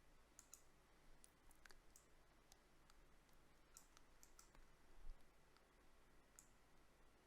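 Faint, irregular clicks of a computer keyboard or mouse being worked, some in quick pairs, over near-silent room tone, with a soft low bump about five seconds in.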